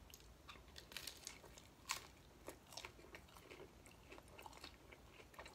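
Close-up chewing of a crispy pan-fried corn-tortilla chicken taco: faint, crisp crunches scattered through the chewing, the sharpest about one and two seconds in.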